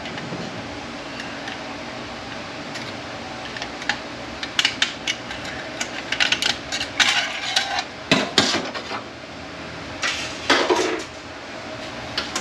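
Metal automatic-transmission parts clinking and scraping against each other as a clutch pack is worked out of the case, with sparse ticks at first, then a busy run of sharp clinks and a longer scrape near the end.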